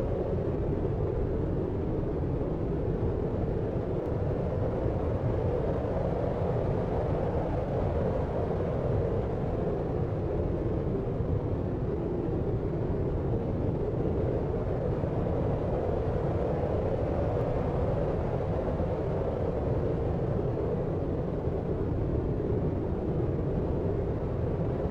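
Deep, muffled noise for sleep, steady and unchanging, with a low rumble and little treble, like brown noise or distant city rumble heard through a window.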